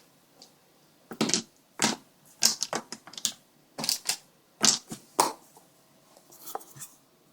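Loose batteries clacking against each other as they are dropped into a container, about ten sharp, irregular clatters, then a few fainter ones near the end.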